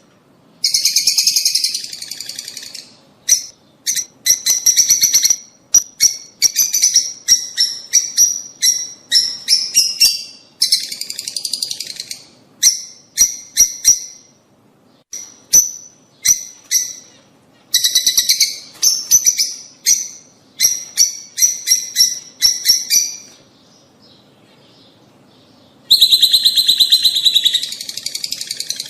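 Rosy-faced and Fischer's lovebirds calling: runs of rapid, high-pitched chattering calls with short gaps between them. The calls fall silent for a couple of seconds near the end, then start again loudly.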